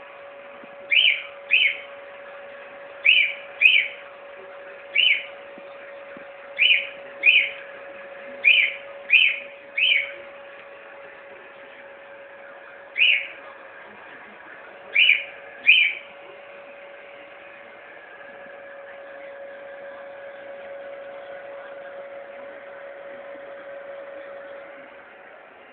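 Cockatiel giving short, sharp chirping calls, often in pairs, about thirteen in all, then falling silent after about 16 seconds. Under the calls a hair dryer runs with a steady hum.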